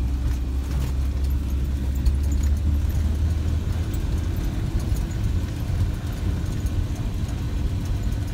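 UAZ off-road vehicle's engine running with a low, steady drone, heard from inside the cabin as it drives slowly; the deepest part of the drone eases a little about halfway through.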